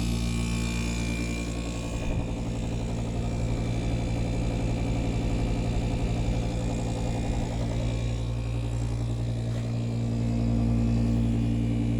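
Duo-Therm Brisk Air camper rooftop air conditioner running in cooling mode on medium cool, its compressor and fan motor giving a steady hum that grows slightly louder near the end.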